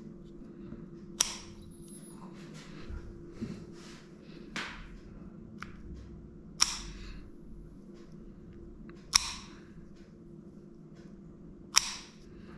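Showtech dog nail clipper snapping through a small dog's nails, five sharp clips a few seconds apart with fainter clicks between them.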